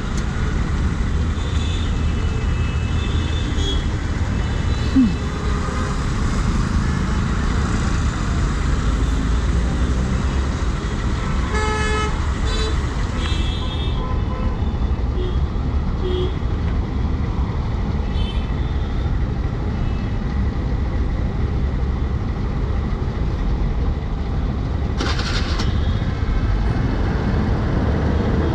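Road traffic heard from a moving motorcycle: a steady low rumble with vehicle horns honking on and off, the loudest a multi-tone horn blast around twelve to fourteen seconds in. A brief sharp sound stands out about five seconds in.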